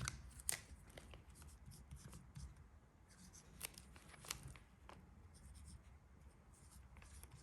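Near silence, with a handful of faint small clicks and light rubbing from a metal lighter being handled.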